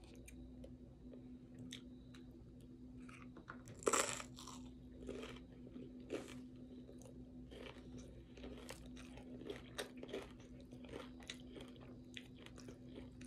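Tortilla chips loaded with taco salad being bitten and chewed close to the microphone: a loud crunching bite about four seconds in, then a run of smaller crunches and chewing over a faint steady hum.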